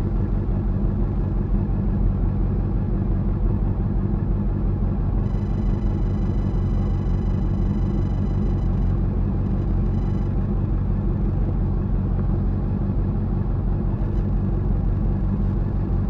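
Honda CB400SF's inline-four motorcycle engine running at a steady speed, with a low rumble and a noise haze.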